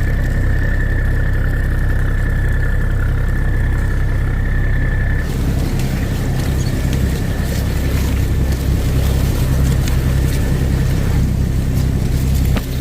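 Boat engine running steadily, with a deep, loud rumble. A high steady whine over it stops about five seconds in, and more hiss comes in.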